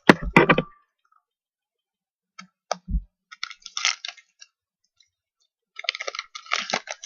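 Trading cards and card packs being handled: a quick run of sharp clicks, a few scattered clicks and a soft thump, then two spells of crackly rustling, as of a foil pack wrapper being torn and crumpled and cards being slid out.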